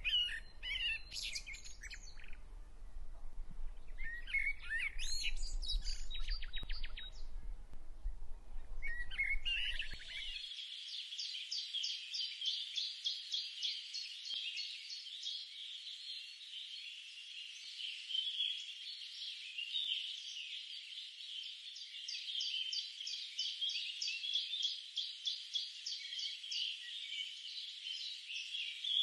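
Birds chirping with a low background rumble, then about ten seconds in the sound cuts to a denser, continuous chorus of rapid high-pitched chirps and trills.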